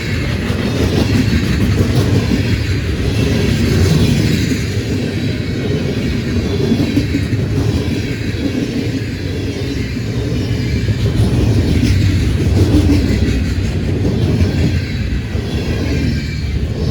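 Freight train rolling past at speed: a steady, loud rumble of steel wheels on the rails with faint clicking over the rail joints.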